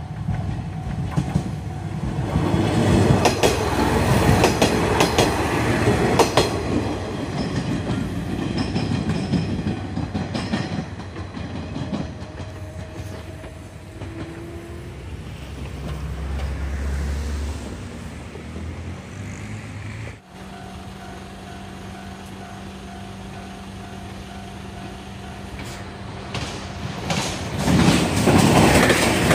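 A single diesel railcar passes close by over a level crossing, its wheels clattering over the rail joints, then fades away. After a cut, a six-car Super Hakuto limited-express diesel train comes through at high speed, loud near the end.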